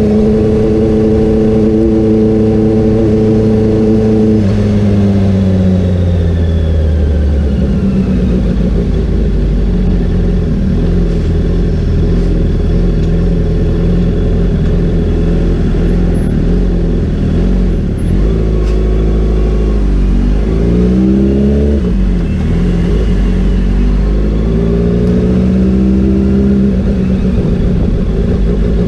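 Honda CBR650R's inline-four engine under way, heard from a handlebar-mounted camera: the engine note holds steady, drops away after about four seconds, then dips and climbs again with a gear change a little past the twenty-second mark and pulls up once more, over steady wind and road noise.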